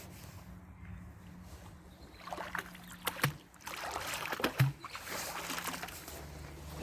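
Water splashing and sloshing in two spells, with a couple of sharp knocks.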